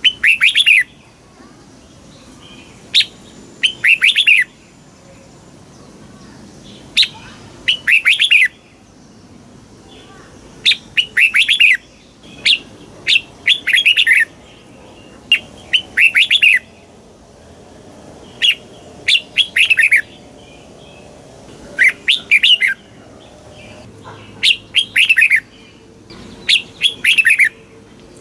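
Red-whiskered bulbul singing: about ten short phrases, one every two to three seconds, each a couple of single chirps followed by a quick run of bright, falling notes.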